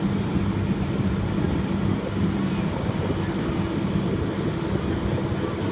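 Bucket truck's engine running steadily, a low even hum.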